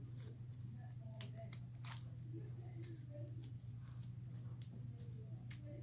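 Borax slime being kneaded and stretched by hand, giving faint scattered sticky clicks and pops over a steady low hum.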